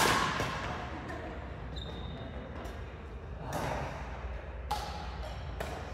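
Badminton racket striking a shuttlecock with a sharp crack right at the start that rings out in a large hall, followed later by a few lighter hits and a brief shoe squeak.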